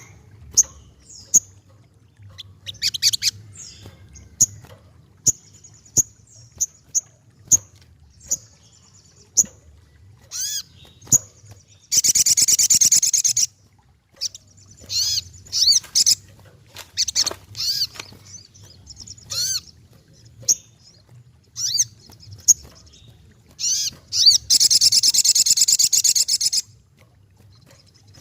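Racket-tailed treepie (sogokontong) calling: a run of short, sharp high calls and quick whistled glides, broken by two long, loud harsh rasping calls, one about twelve seconds in and one about twenty-five seconds in.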